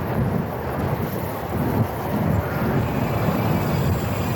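Wind buffeting a phone microphone carried on a moving e-bike: an uneven low rumble with no clear tones.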